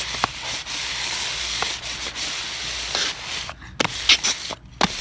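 Paper bag rustling and crinkling as it is handled: a steady scratchy rustle with a few sharp crinkles, cut by two brief near-silent gaps in the second half.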